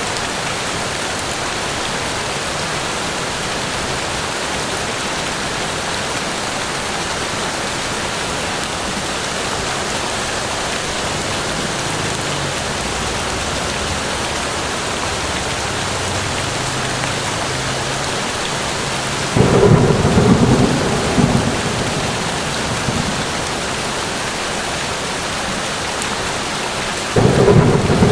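Steady rain falling in a forest, with a low rumble building and two sudden thunderclaps that roll and fade, about two-thirds of the way through and again near the end.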